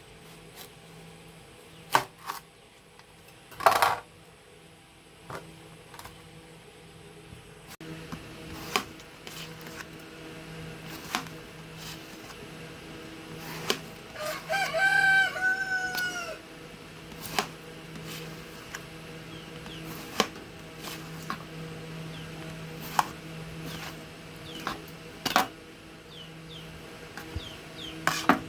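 A rooster crowing once, a call of about two seconds midway through. Sharp knocks and clicks come every few seconds throughout.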